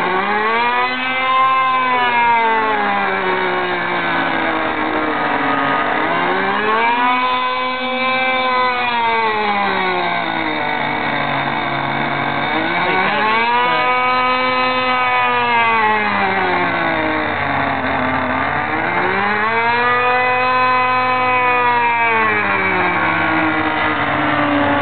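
DLE-30 single-cylinder two-stroke gas engine on an RC aerobatic plane, turning an 18x8 wood prop in flight. Its pitch rises and falls four times, about every six seconds, as the plane manoeuvres.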